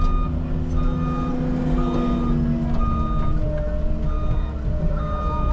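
Heavy earthmoving machine's engine running under the steady note of its hydraulics, with its backup alarm beeping about once a second as it reverses.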